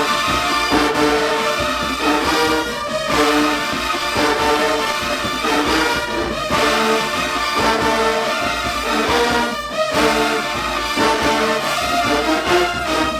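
HBCU show-style marching band's brass section playing a loud tune in full, blaring chords with a punchy rhythm, trombones and trumpets prominent.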